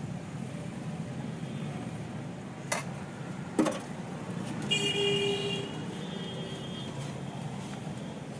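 Steady road traffic noise with a vehicle horn honking once for about a second near the middle, just after two sharp knocks.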